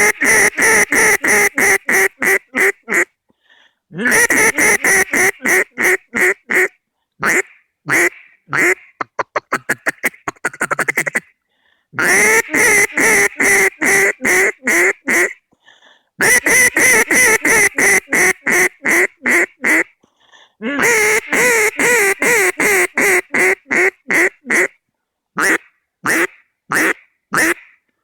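A Braggin Rights cutdown duck call blown in loud strings of rapid hen-mallard quacks, several sequences each stepping down in pitch, broken by short pauses for breath. About ten seconds in comes a quicker run of short, clipped notes, and near the end a few spaced single quacks.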